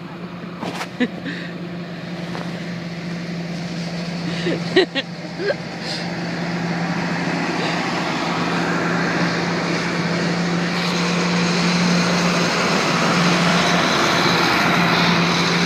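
Farm tractor engines running in a passing parade, a steady hum that grows louder over the first twelve seconds or so as they draw near.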